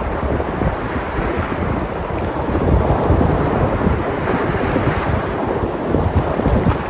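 Sea surf: waves breaking and washing onto the shore in a continuous rush that swells gently a couple of times, with wind rumbling on the microphone.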